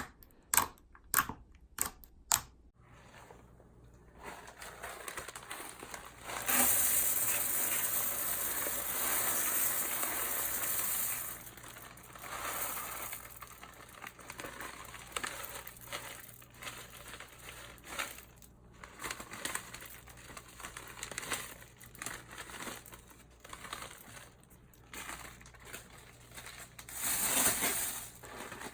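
Slime being kneaded and squeezed by hand: a quick run of sharp pops, about two a second, then a long stretch of crinkling, crackling squishes that is loudest a few seconds in and swells again near the end.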